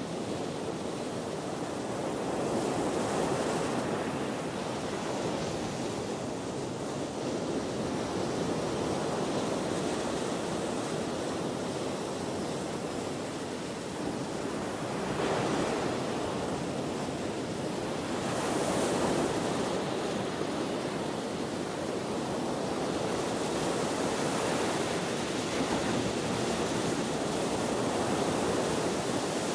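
Ocean waves breaking and washing ashore in steady surf, swelling every few seconds, with wind.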